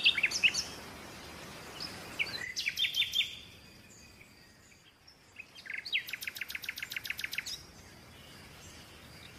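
Birdsong: short high chirps in the first few seconds, a pause, then a rapid, fast-repeating trill lasting about two seconds.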